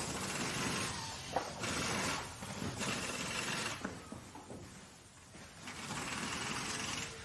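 Workshop machinery running in repeated noisy passes of about a second or two each, with a short lull in the middle and a few sharp clicks.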